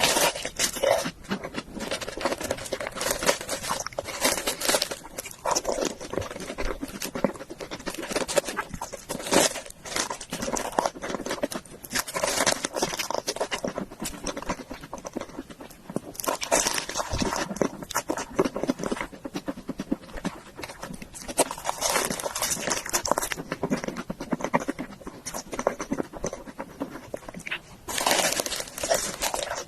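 Close-miked chewing of grilled beef intestine and noodles: a dense run of wet mouth clicks and smacks, with louder bursts of chewing every few seconds.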